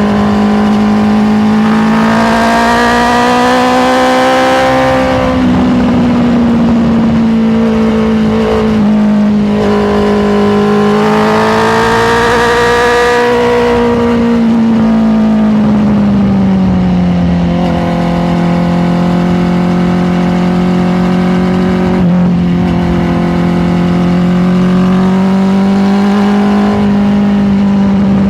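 Honda CBR650R's inline-four engine running under way. Its pitch rises and falls twice as the throttle is worked, then drops and holds steadier at a lower pitch for the rest.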